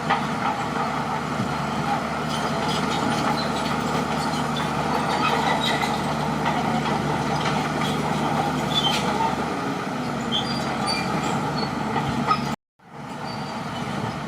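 Crawler bulldozer's diesel engine running steadily, with scattered clanks and short high squeaks. About twelve and a half seconds in, the sound cuts out abruptly for a moment, then comes back.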